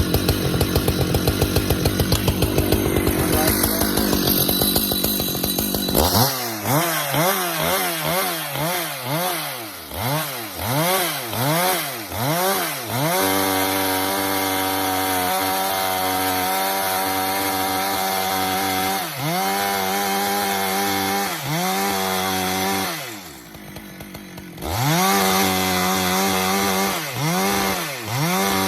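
Husqvarna chainsaw working pecan rounds: for about the first six seconds it runs under heavy load in the cut, then the engine is revved up and down again and again and held at high speed for several seconds. Near the end it drops briefly to a lower speed before revving up again.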